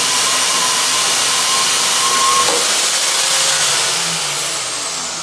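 Portable bandsaw cutting through thick-walled 2-inch tube. The sound is a loud, steady mechanical noise that changes about halfway through. Near the end the motor winds down with a falling whine.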